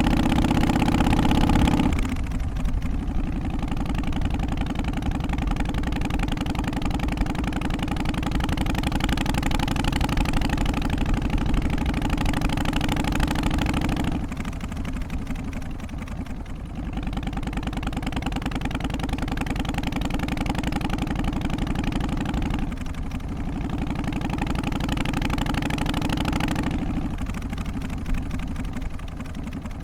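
Harley-Davidson Twin Cam 88 V-twin engine idling steadily. Its tone and loudness shift abruptly a few times.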